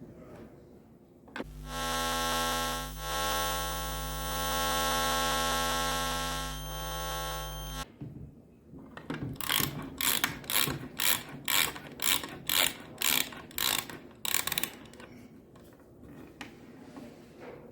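A steady mechanical hum with a strong buzzing pitch lasts about six seconds and cuts off suddenly. A few seconds later comes a run of about a dozen noisy, ratchet-like strokes, roughly two a second.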